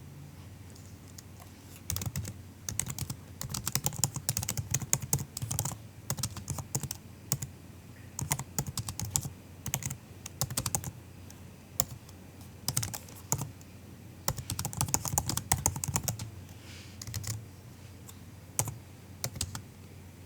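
Typing on a MacBook's built-in keyboard: soft, quick key clicks in bursts of several seconds with short pauses between, starting about two seconds in and thinning out near the end.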